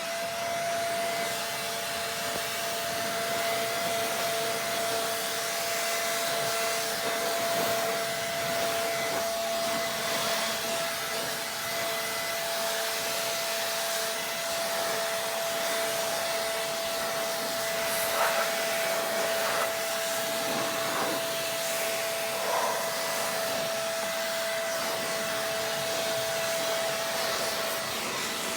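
Air blower spinning up and then running steadily with a constant whine over a rush of air, blowing water off a freshly washed engine bay to dry it.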